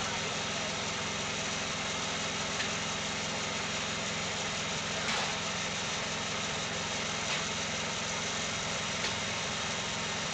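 Wood-Mizer portable sawmill running steadily, its engine drone unbroken, with a few faint clicks.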